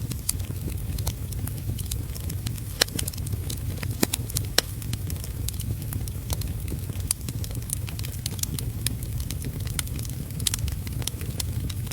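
Wood fire in a fireplace crackling, with sharp, irregular pops scattered over a steady low rumble; a few louder pops stand out around three and four seconds in.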